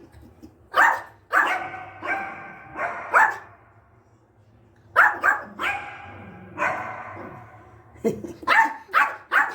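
Pet dog barking repeatedly in three bouts of several barks each, the last a quick run of barks near the end.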